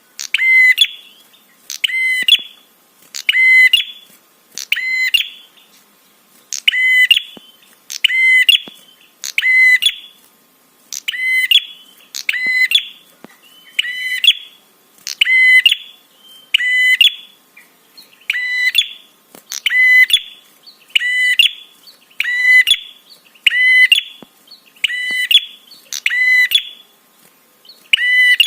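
Prinia (prenjak) calling: a short, sharp, high call repeated about once every second, the kind of prenjak call recording used as a lure to make other prenjak answer.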